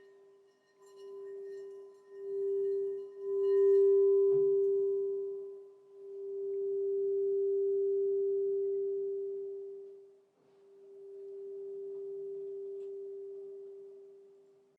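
Crystal singing bowl sounding one pure, steady low tone with faint higher overtones. The tone swells and fades in several long waves, and there is a light knock a little over four seconds in.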